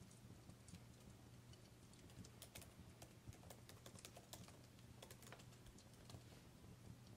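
Faint, irregular crackles and pops of a burning wood fire, heard as scattered sharp clicks over a low steady hum, thickest in the middle.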